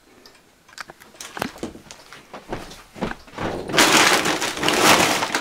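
Scattered knocks and clicks, then a loud rustling scrape lasting about a second and a half near the end.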